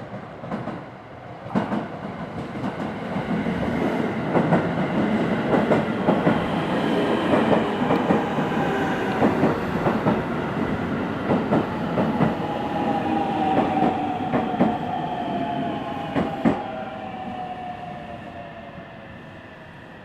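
Six-car electric train pulling into the platform: wheels rumbling and clicking over rail joints, with a whine that falls steadily in pitch as it slows, then the sound dies away as it comes to a stop.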